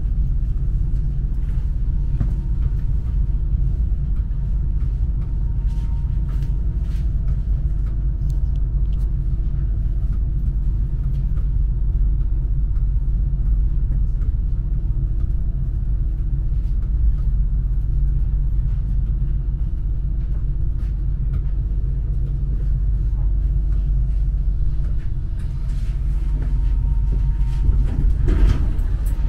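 Passenger train running on the line: a steady low rumble with a faint hum and scattered clicks, growing briefly louder near the end.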